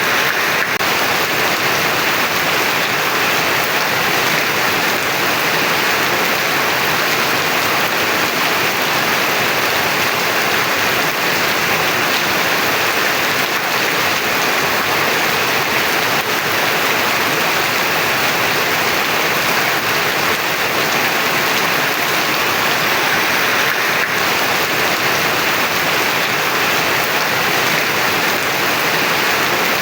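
Heavy rain falling steadily in a continuous, even hiss of drops on surfaces, with no thunder or single loud events.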